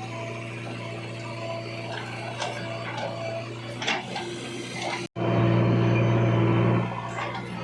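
A diesel engine of heavy machinery running at a steady speed, with occasional knocks and clatters. After a sudden break about five seconds in, it runs louder for about a second and a half, then drops back to its earlier level.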